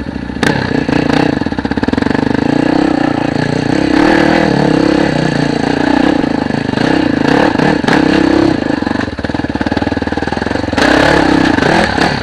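Dirt bike engine running hard under load on a steep climb, its revs rising and falling, with a brief drop in revs about nine seconds in.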